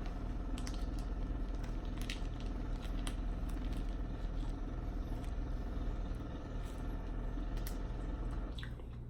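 Construction work outside the apartment: a steady machine drone with a fast, even pulsing, which stops near the end. Small clicks and squishes of food being handled and eaten sound over it.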